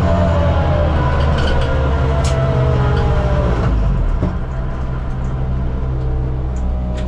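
Suzuki Swift race car's engine heard from onboard, its pitch falling for about four seconds as it slows, then running steadily at low revs.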